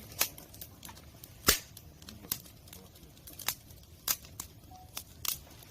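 Firewood crackling in an open wood fire: about ten sharp, irregular pops over a low hiss, the loudest about a second and a half in.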